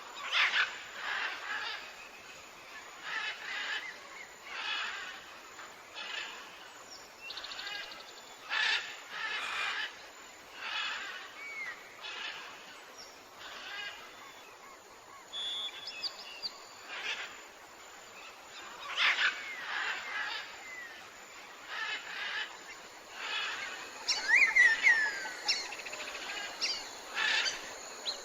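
Birds calling in a chorus: a run of short, noisy calls repeats every second or two. Near the end a cluster of quick chirping whistles slides down in pitch.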